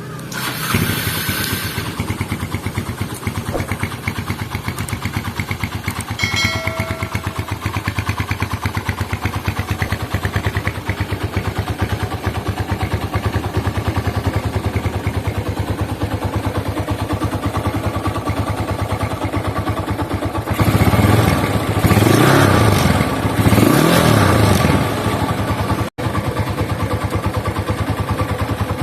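Honda GL100 single-cylinder four-stroke motorcycle engine starting and settling into an even, rhythmic idle, then revved in several rising and falling blips about two-thirds through before dropping back to idle.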